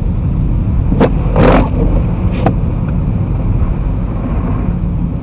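Car driving at just under 30 mph on a snow-covered road, heard from inside: a steady low rumble of engine and tyre noise. Brief hissy bursts come at about 1 and 2.5 s, with the loudest about a second and a half in.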